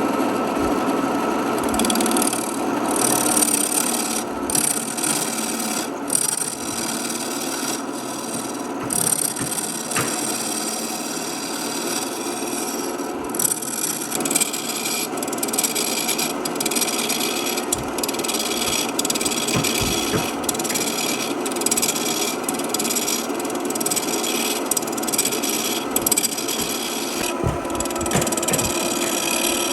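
A power tool running against wood: a steady motor tone under rough abrasive scraping that breaks off briefly again and again as the tool is lifted and pressed back into the wood.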